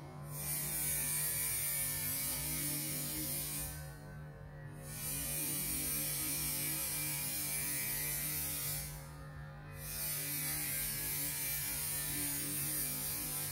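Steady electrical hum with a high hiss over it; the hiss breaks off for about a second roughly every five seconds.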